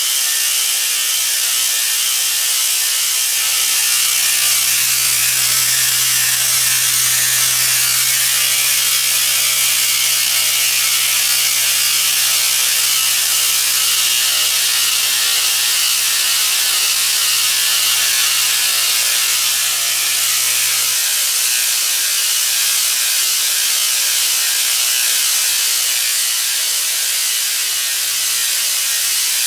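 Modular plastic conveyor belt running through a Tornado belt cleaner: a continuous rapid clatter of belt links under a loud steady hiss from the cleaner. A low hum underneath cuts off about two-thirds of the way through.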